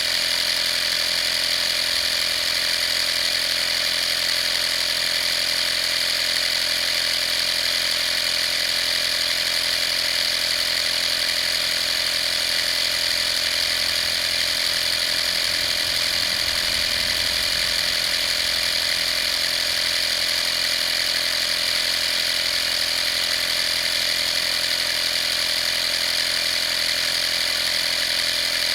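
Vaper 12-volt portable air compressor running steadily, a constant motor and pump whine with a strong high tone.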